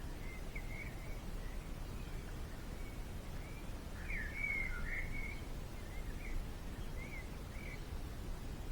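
Small birds giving short, scattered chirps, busiest about four to five seconds in, over a steady low background rumble.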